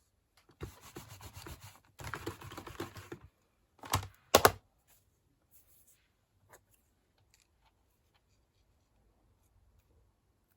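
Paper and card being handled and rubbed on a craft desk for a few seconds, then two sharp knocks close together, followed by a few faint ticks.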